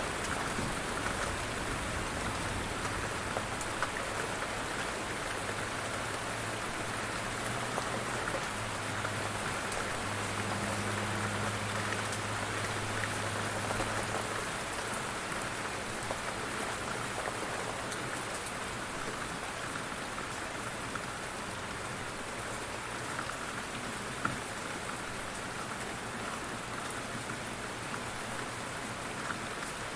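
Steady rain falling, with scattered drop ticks and a low rumble during about the first half.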